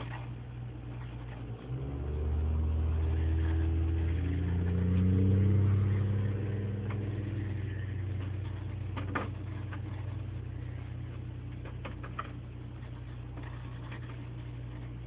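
A motor running with a low hum that swells about five seconds in, then settles to a steady level, with a few faint clicks over it.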